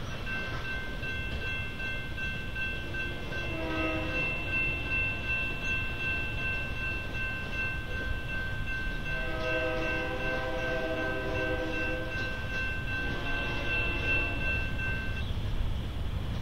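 Freight train running past with a steady low rumble and a high steady ringing tone that stops near the end. Over it a train horn sounds three blasts: a short one about four seconds in, then a long one and a shorter one in the second half.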